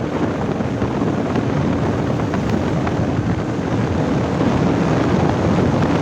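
Kawasaki Ninja ZX-10R's inline-four engine running as the bike is ridden, mixed with heavy wind noise on the microphone; the level rises slightly in the second half.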